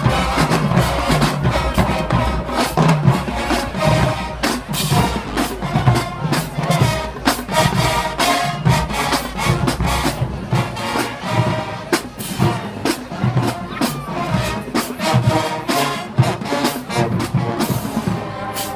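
Marching band playing, brass section over steady drumline percussion.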